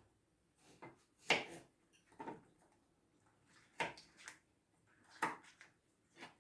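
Irregular knocks of a kitchen knife on a cutting board while cutting vegetables into small pieces, about six sharp strikes spaced unevenly with pauses between.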